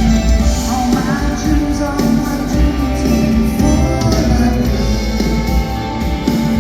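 Live rock band playing in an arena, with a heavy bass line, guitar and some singing.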